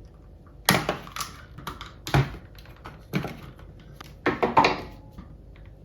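Irregular sharp clicks and knocks of hard plastic as the casing of a Dyson cordless vacuum cleaner is handled and worked apart with a screwdriver, about six strikes.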